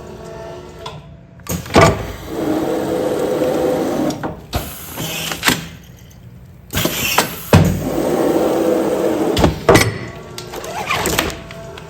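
Automatic pneumatic container sealing machine running two sealing cycles in a row, each with sharp mechanical clacks and a stretch of steady machine noise in between.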